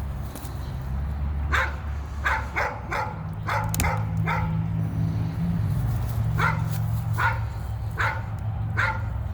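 A dog barking repeatedly, in quick runs of several short barks with pauses between, over a steady low hum.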